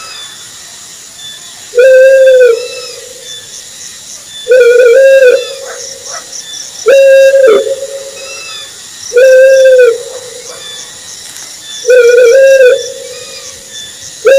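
Owl hooting: five level-pitched hoots, each under a second long, coming about every two and a half seconds, over a faint high chirring.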